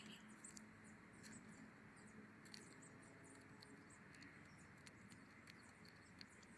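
Faint, scattered high chirps of small birds, many short calls a second, over a low steady hum and background hiss.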